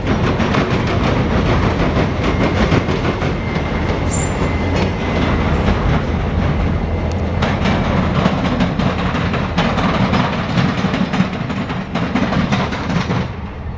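CSX local freight train rolling past close by while going backwards, its wheels clicking steadily over rail joints over a constant rumble. Two short high-pitched squeals, about four and five and a half seconds in.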